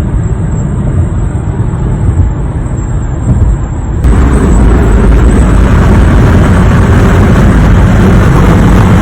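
Cabin road and wind noise of a 2021 Honda HR-V at highway speed, with a thin, steady, piercing high-pitched whistle: a wind whistle the owner blames on a design flaw and the dealer calls normal. About four seconds in, the wind rush suddenly gets louder and the whistle fades into it.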